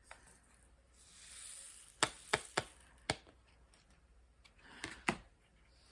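Light handling noises from plastic-canvas needlework: a soft rustle about a second in, then half a dozen sharp, separate clicks and taps.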